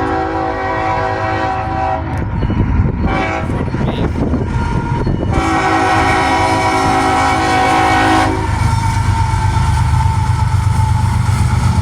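Freight locomotive's air horn sounding two long blasts, the first ending about two seconds in and the second from about five to eight seconds, then the loud low rumble of the train running past.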